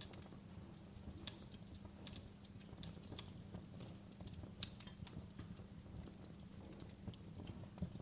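Wood fire burning in a fireplace: irregular crackles and pops over a low, steady rumble of the flames, with a sharper pop about a second in and another midway.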